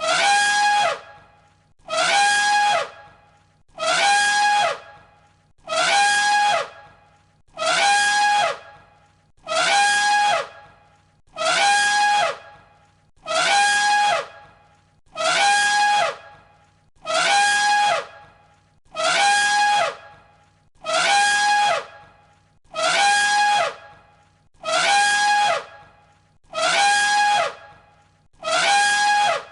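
Elephant trumpeting: a short, shrill blast, under a second long, repeated identically about every two seconds as a looped recording.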